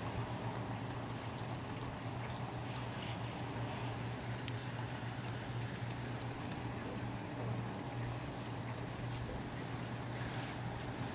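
Steady rain falling and trickling off surfaces, with scattered drops ticking, over a steady low hum.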